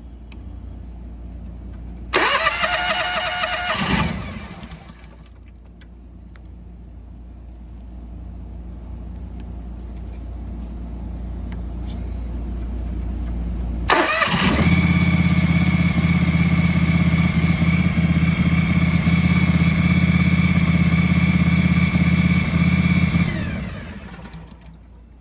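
Propane-fuelled engine of a National 5625 fires about two seconds in, rises in pitch and dies away after about two seconds: it starts and then runs out of fuel. The owner suspects a sticking fuel lock solenoid. About fourteen seconds in the engine starts again and runs steadily for about nine seconds, then winds down with falling pitch.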